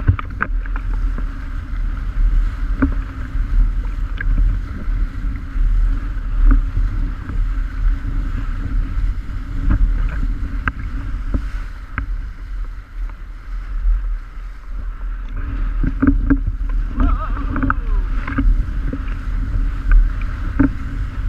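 Strong wind buffeting the microphone: a loud, gusting low rumble with scattered knocks and rattles.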